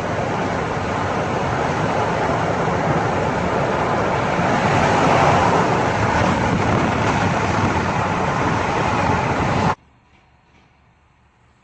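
Steady rushing road and wind noise of a moving car, swelling slightly, then cutting off abruptly near the end to a faint hiss.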